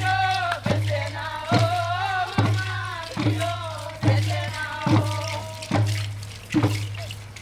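Voices singing together in a traditional performance over a steady drum beat of a little more than one stroke a second. The singing stops about five seconds in while the drum keeps going.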